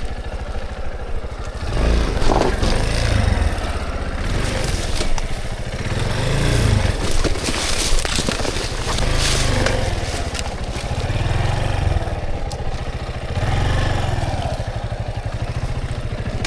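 Dirt bike engine running at low revs, the throttle opening and closing so the engine note swells and drops every second or two as the bike works over logs, with scraping and clattering mixed in.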